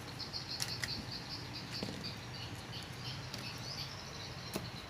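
A few light clicks and soft rustling of dry swiftlet nests being handled while they are sorted by grade, over a steady high-pitched chirping.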